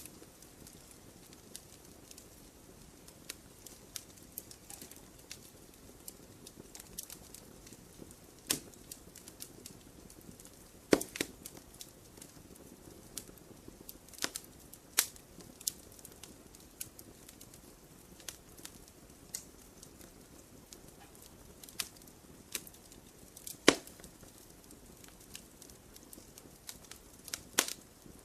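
Campfire crackling: sharp, irregular pops and snaps of burning wood over a low steady hiss, with a few louder cracks.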